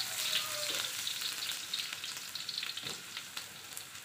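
Chopped garlic, shallots, ginger and lemongrass sizzling in hot oil in a wok, a steady frying hiss with occasional scrapes and clicks of a wooden spatula stirring them.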